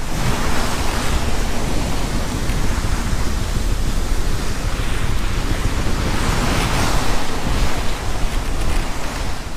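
Ocean surf washing with wind buffeting the microphone: a steady rushing noise with a heavy low rumble, swelling about a second in and again around six to seven seconds.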